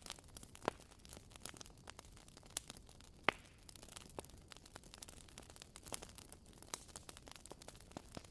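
Wood fire crackling: burning logs give off irregular small pops and snaps over a faint steady hiss, with one sharper pop a little past three seconds in.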